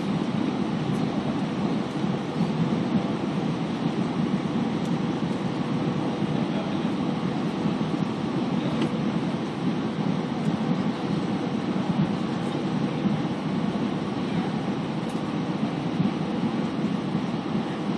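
Steady rumble of an Airbus A320 in flight, heard from inside the passenger cabin: engine and airflow noise with a faint steady tone over it.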